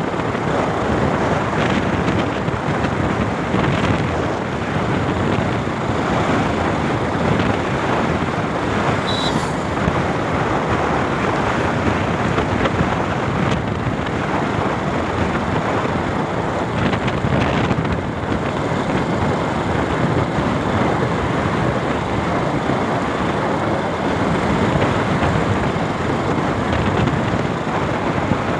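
Steady rush of wind and road noise from a motorcycle on the move, buffeting the microphone. A brief high tone sounds about nine seconds in.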